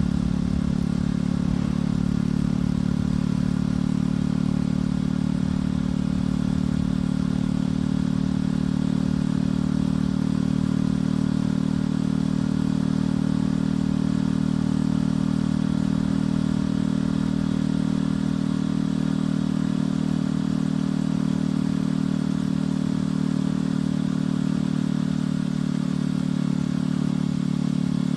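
Motorcycle engine and exhaust running at a steady cruising speed while riding, the engine note held almost constant throughout.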